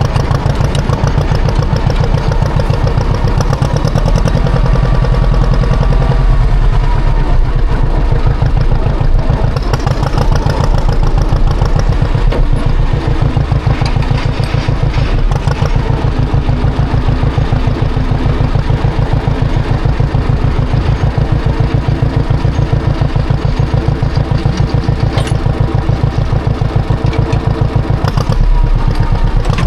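Tractor engine running steadily while plowing snow, getting a little louder about four seconds in and again near the end.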